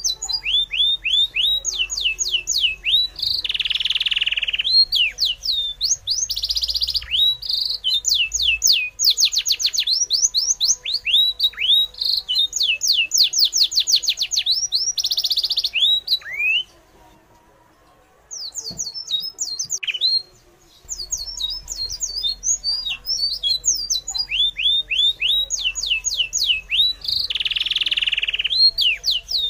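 Birds chirping in quick runs of high, falling chirps, one after another. Twice, about halfway through, the sound drops out almost to silence for a second or so.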